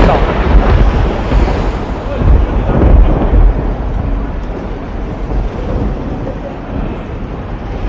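Loud, uneven low rumble of wind buffeting a walking camera's microphone over street noise, easing off after about three and a half seconds.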